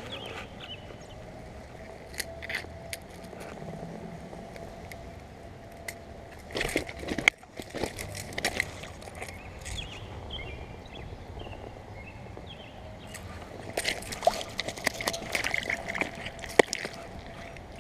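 Irregular rustling and clicking handling noises over a steady outdoor hiss, in bursts about seven seconds in and again near the end.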